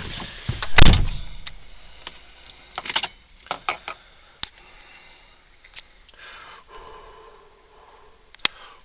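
A single loud thump about a second in, followed by scattered light clicks and knocks; no engine is running yet.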